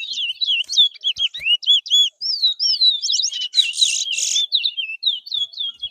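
Caged towa-towa finch singing a fast, continuous run of sweeping whistled notes, with a harsher, buzzy stretch about three and a half seconds in. This is competition song being tallied in a bird race.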